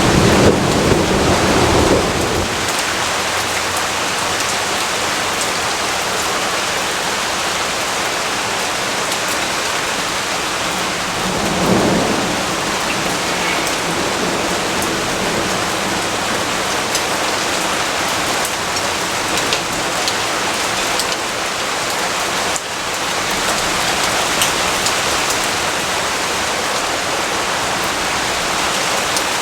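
Steady rainfall hissing, with low rumbles of thunder: one at the start lasting about two seconds, and a shorter one about twelve seconds in.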